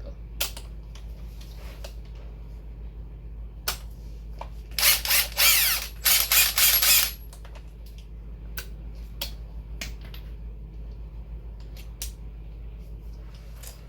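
A socket wrench's ratchet clicking rapidly for about two seconds midway. Scattered single clicks of metal tools being handled come before and after it.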